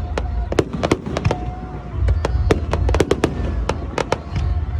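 Fireworks going off: a rapid, irregular string of sharp cracks and bangs, several a second, over a continuous low rumble of bursting shells.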